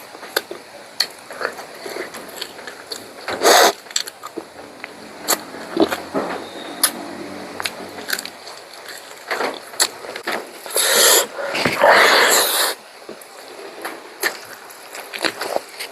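Close-miked eating sounds of pork curry: chewing and mouth clicks throughout, with louder rushing bursts about three and a half seconds in and again around eleven to twelve seconds in.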